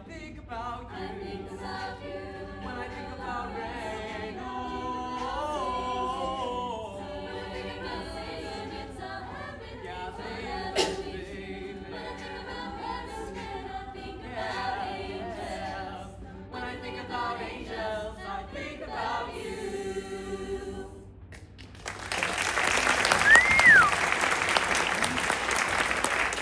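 Madrigal choir singing a cappella in close harmony, the final chord ending a little before two-thirds of the way through. After a short pause, audience applause breaks out with a whistle rising and falling once.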